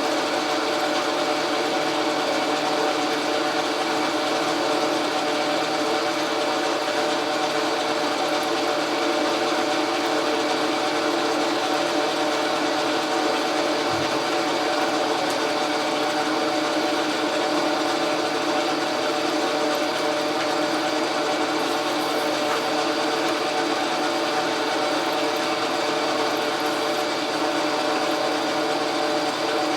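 Logan metal lathe running steadily, its drive giving a constant whine of several steady tones over a mechanical hum, with one short low thump about halfway through.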